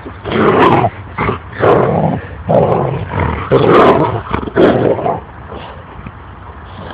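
Dog growling and barking in a run of loud, rough bursts, about six in five seconds, which then die down.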